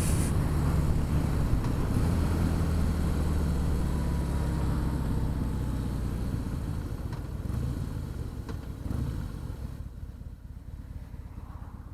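Harley-Davidson Breakout's V-twin engine running steadily as the motorcycle rides along, with wind and road noise. About halfway through the engine note dies down and grows quieter toward the end.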